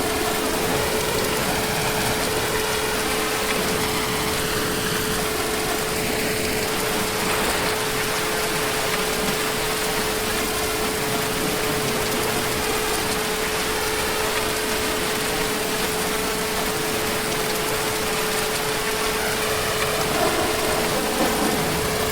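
Heavy rain falling steadily, an even wash of noise with no pauses, under a faint steady hum held at one pitch.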